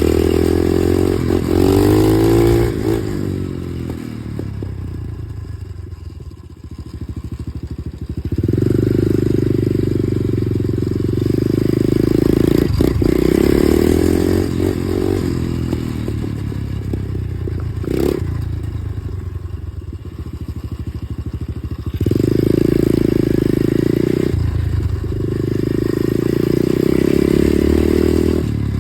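Small dirt bike engine running under throttle while being ridden, revving up and easing off in three long surges, with rattling and scraping noise.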